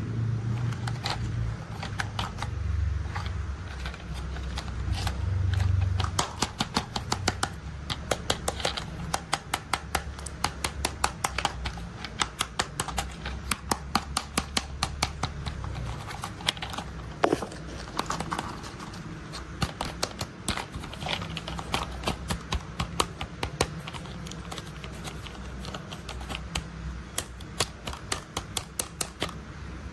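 A low engine-like rumble for about the first six seconds, then many quick, irregular plastic clicks of toy construction vehicles being handled, going on to the end.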